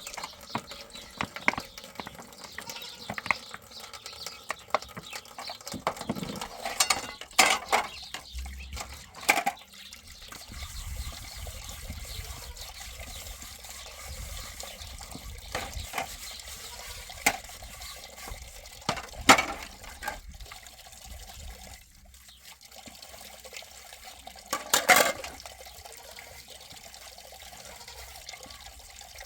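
Water splashing and pouring, with scattered knocks and clatter and a few short louder splashes.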